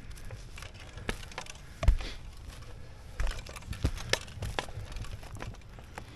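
Knocks, scuffs and crinkling from someone moving about on an asphalt shingle roof, with a sharp knock a little under two seconds in and lighter ones scattered after.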